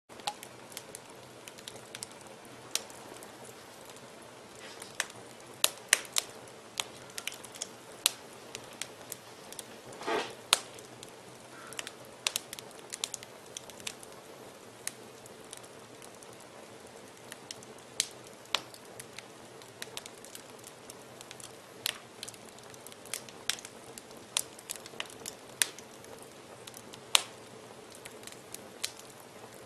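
Fire burning in a fireplace, crackling with irregular sharp pops over a soft steady background, and a brief hiss about ten seconds in.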